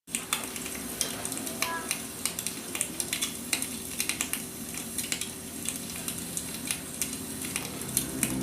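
Firewood burning: irregular crackles and pops over a steady hiss.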